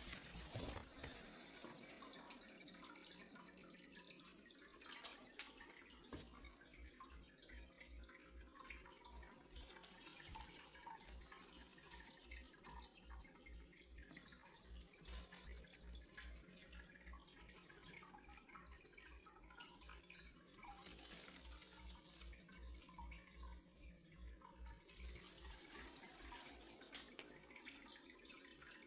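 Faint water running from a tap into a sink, with some dripping.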